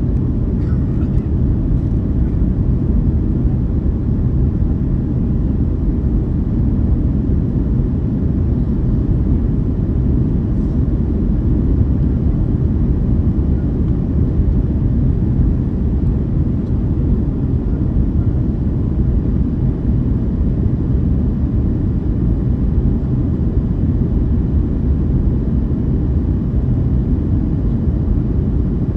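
Airliner's steady low rumble of engines and airflow, holding an even level without change.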